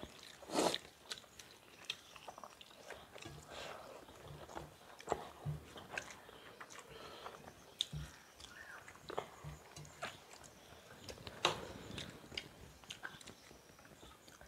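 Two people eating rice and egg bhurji with their hands from steel plates: close-up chewing and mouth smacks, with irregular sharp clicks scattered through.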